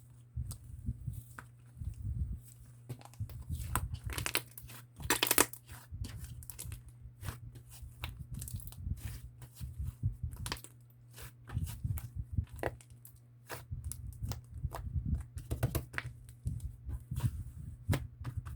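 Sherbet slime being mixed by hand with a whipped-cream slime, giving off irregular sticky clicks, crackles and squelches; a louder crackling stretch comes about five seconds in.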